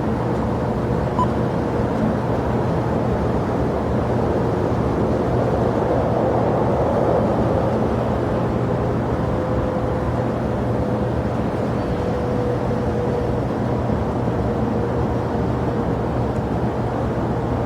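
Jet airliner engines running at an airport: a steady rushing drone with a low hum and a faint tone, swelling slightly partway through.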